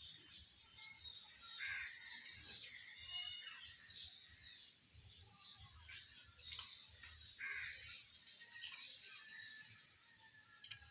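Faint short bird calls and chirps come and go over a steady high hiss, with a few sharp clicks.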